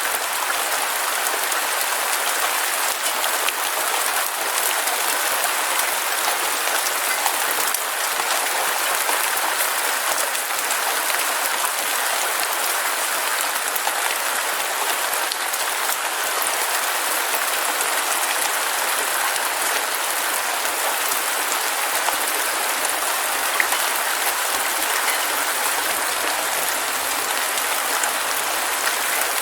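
Heavy rain falling steadily: a dense, even hiss made of countless fine drop patters, with no thunder.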